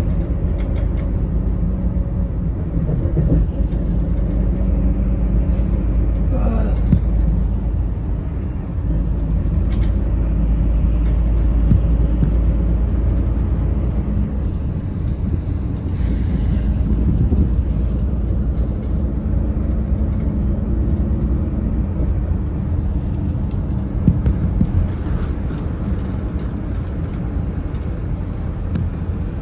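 Daewoo FX116 coach's diesel engine and drivetrain heard from inside the bus while it is driving, a steady drone over a heavy low rumble. A brief rising whine sounds about a quarter of the way in.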